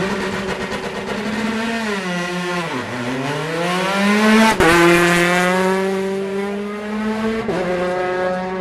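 Rally car engine revving hard as it pulls away from a special-stage start. The pitch rises, drops low about three seconds in, then climbs again. A sharp crack comes about four and a half seconds in, and after it the engine holds a high, steady note.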